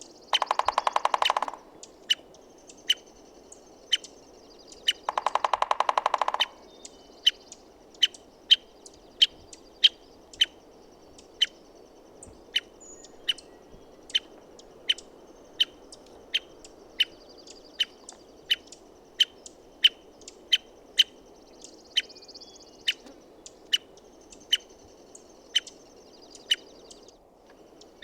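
American three-toed woodpecker giving short, sharp call notes about twice a second, with two bouts of rapid drumming on wood, each about a second and a half long: one at the start and one about five seconds in.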